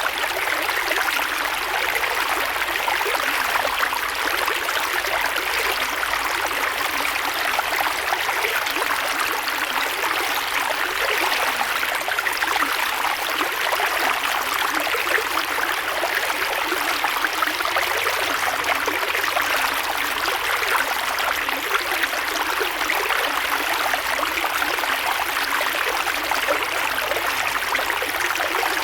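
Creek water flowing steadily over rocks, a continuous rushing and trickling.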